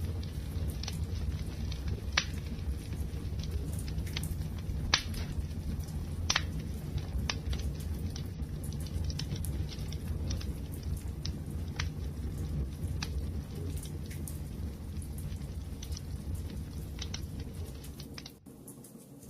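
Wood fire burning: a steady low rumble of flames with sharp crackles and pops scattered every second or so, the loudest about five and six seconds in.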